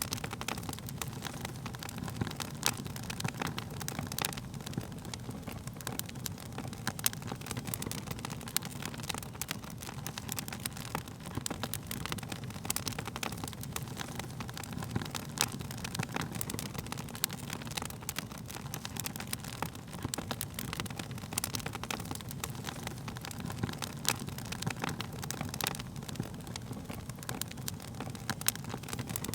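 Wood fire crackling, with irregular sharp pops and snaps, some louder than others, over a steady low rumble.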